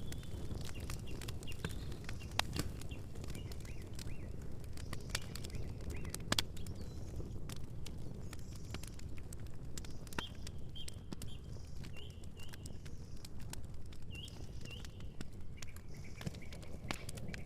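Campfire crackling, with frequent sharp pops over a steady low noise of the flames. Small birds chirp in short repeated notes through the second half.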